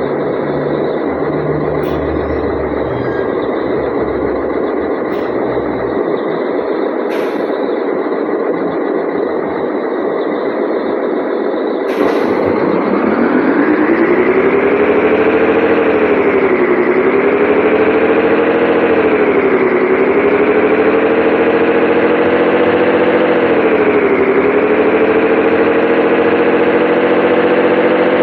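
Scania 113H 360 truck's diesel engine: a noisy rumble with a few clicks at first, then about twelve seconds in a clear engine note rises in pitch, dips briefly three times and climbs again each time.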